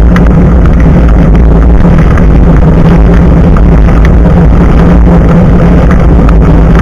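Loud, steady rumble of wind and tyre noise picked up by an action camera's microphone mounted just above a bicycle's front tyre while riding, with a few sharp clicks.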